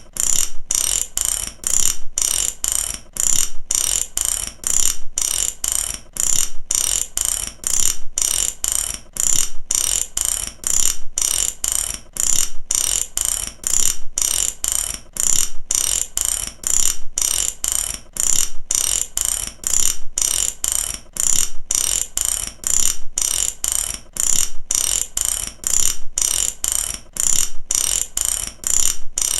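Mechanical ratchet clicking, its pawl snapping over the teeth in quick runs of clicks that repeat evenly about once a second.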